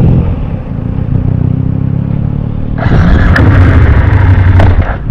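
Motorcycle engine running under way; about three seconds in it gets louder as the throttle opens.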